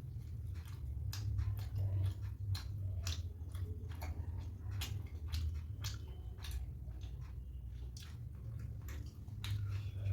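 Close-miked chewing of soft luchi (poori) with curry: wet mouth clicks and smacks, several a second and irregular, over a steady low hum.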